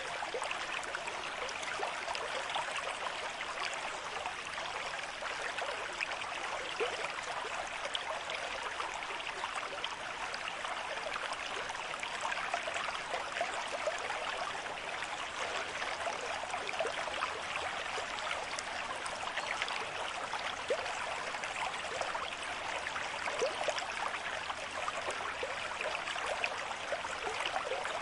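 River stream flowing at a moderate pace: a steady rush of water with many small splashes.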